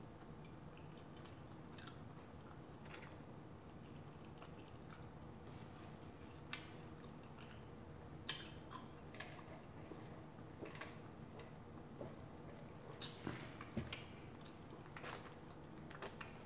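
A person chewing and biting food, here French fries dipped in blue cheese: faint mouth sounds with scattered small clicks, a few sharper ones in the second half.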